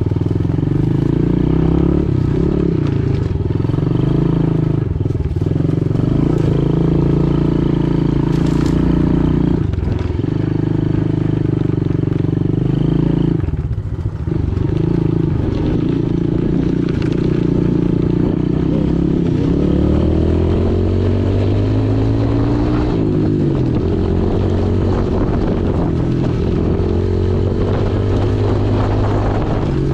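Pit bike engine running under throttle while riding, its pitch mostly steady with brief drops as the throttle is eased off, then rising and falling through the revs in the second half.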